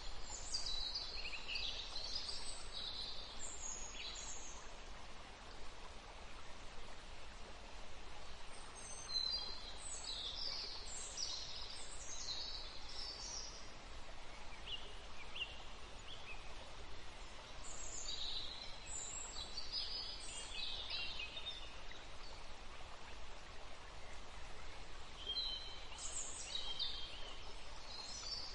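Birds singing in short phrases of high chirps that come and go every several seconds, over a steady background hiss.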